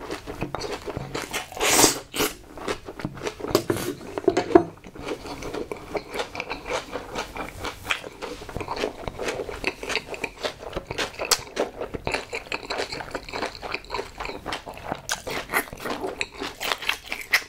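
Close-miked eating sounds: a short slurp from the bowl of leftover spicy noodle sauce about two seconds in, then steady wet chewing with many small clicks and lip smacks.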